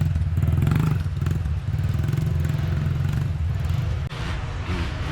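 A small dirt bike engine running close by, louder in the first second and then steadier, with a brief dip about four seconds in.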